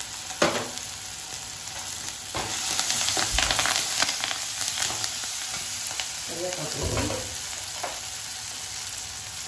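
Onions, tomatoes and freshly added curry leaves sizzling in hot oil in an iron kadai. A metal spoon stirs and scrapes against the pan, with scattered clicks, and the stirring is busiest from about two to five seconds in.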